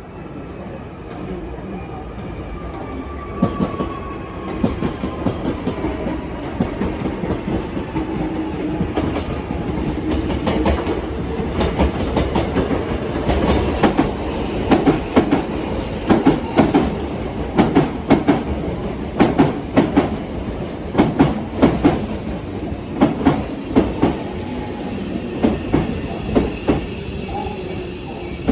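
Hankyu electric commuter trains pulling into the station: a falling motor whine as they slow, then a long run of wheels clacking over rail joints and points.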